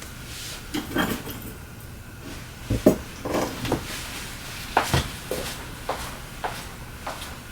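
Irregular clicks, taps and light knocks of small tools and supplies being picked up and set down on a workbench, with a few louder knocks about three and five seconds in.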